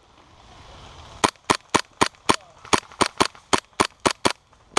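Airsoft gun firing a quick string of single shots, about four a second, starting about a second in, with a brief pause midway and one more shot at the end.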